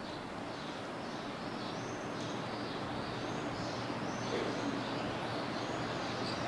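Birds chirping faintly over a steady hiss, short high chirps recurring throughout.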